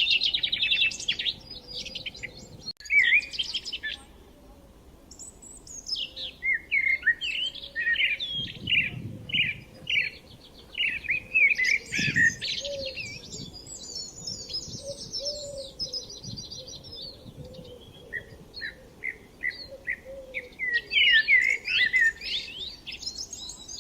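Several small birds chirping and singing, with quick repeated trills near the start and again near the end and a steady run of short chirps in between.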